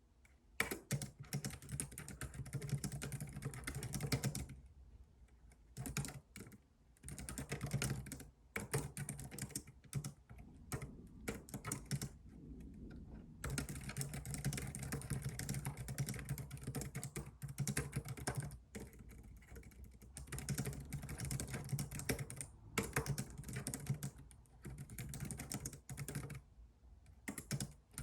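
Computer keyboard typing: fast runs of keystrokes broken by short pauses every few seconds.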